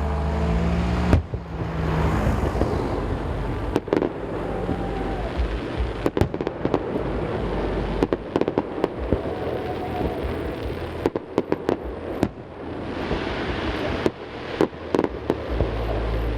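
Aerial fireworks display: a run of sharp bangs from bursting shells, some in quick clusters, over a continuous crackle, the booms echoing off the surrounding mountains. A low steady hum is heard for the first second.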